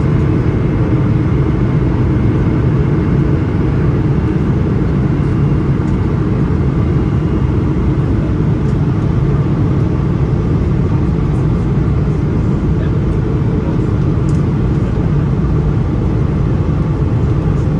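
Steady cabin roar inside a Boeing 777-300ER in flight, heard from a window seat: the GE90 engines and the rush of air over the fuselage, deepest and loudest in the low range.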